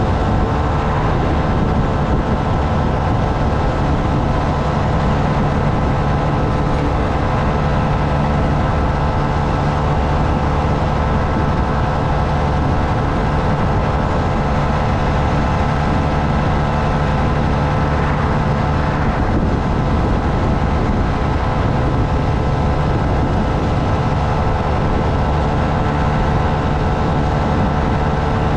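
Honda Navi's small single-cylinder engine running at a steady, unchanging speed while riding.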